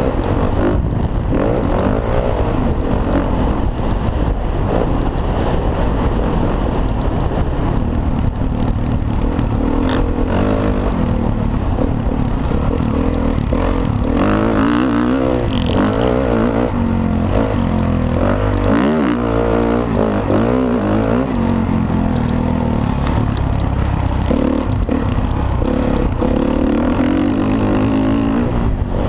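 Motocross bike engines revving hard, their pitch rising and falling again and again as the throttle is worked through the race.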